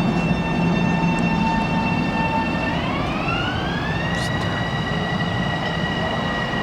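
LIRR M7 electric train pulling away: its electric motor whine holds steady, then rises in pitch about three seconds in and levels off at a higher tone, over a low hum and rumble.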